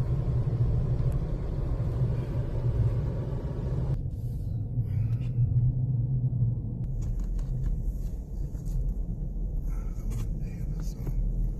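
Low steady rumble of a vehicle driving, with a few faint clicks over it in the second half.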